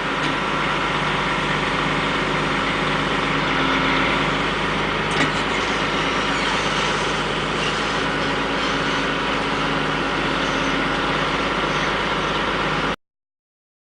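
An engine running steadily with an even hum, a single short click about five seconds in, then the sound cuts off abruptly near the end.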